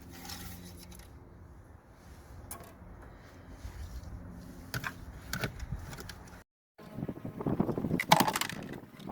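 Scattered light clicks and clinks of tools and engine parts being handled, with a busier stretch of clattering near the end.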